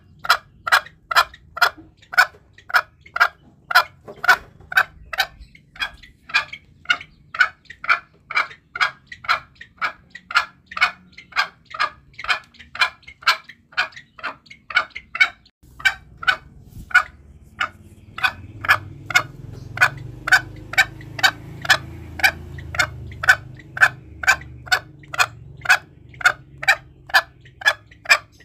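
Green junglefowl lure call: a fast, even series of short, sharp clucking calls, about two a second, of the kind played to provoke wild males. A low rumble sits underneath in the second half.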